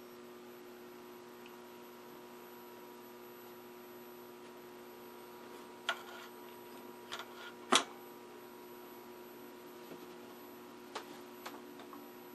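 Philco Predicta Princess tube television chassis running, with a steady electrical hum and a thin high-pitched whine. Several light clicks break in, the loudest just before the eighth second.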